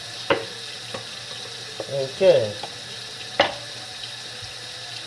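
Tap water running into a sink as a bagless vacuum's plastic dust canister is rinsed and scrubbed, with two sharp knocks.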